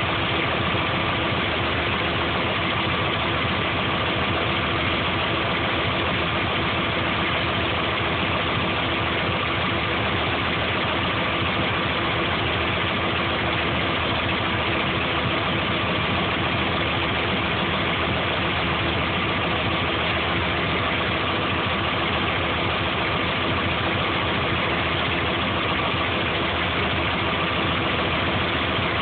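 Subaru EJ22 flat-four engine running steadily, an even mechanical hum with a constant whine in it.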